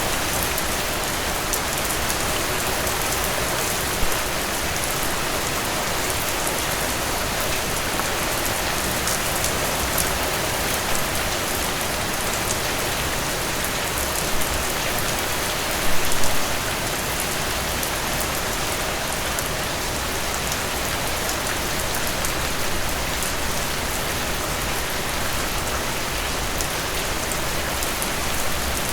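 Steady rain falling, with individual drops ticking on a surface throughout and a few louder drop hits, about 4 seconds in and again around 16 seconds.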